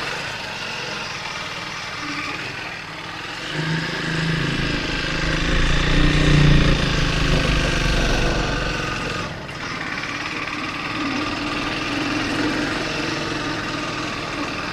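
Triumph Speed 400's single-cylinder engine running under way. It gets louder from about four seconds in, then drops back suddenly a little after nine seconds and runs on steadily.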